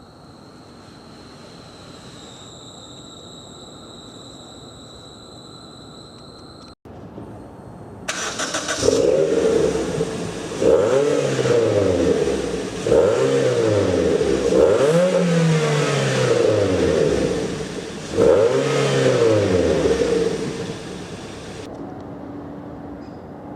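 Suzuki Ignis Sport's 1.5-litre four-cylinder engine revved through a Fox stainless-steel duplex rear silencer: several blips of the throttle, each rising and falling in pitch, before it settles back to a steady idle near the end. The first part is a quieter steady hiss with a high whine, broken by a cut.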